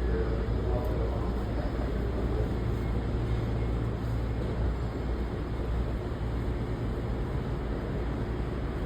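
Tokyo Metro 16000 series electric train running out of the station: a steady low rumble that eases slightly after about five seconds.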